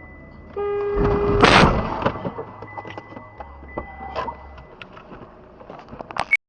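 A car horn sounds for about a second, cut off by a loud crash of vehicles colliding. Scattered knocks and clatter follow, then the sound stops abruptly.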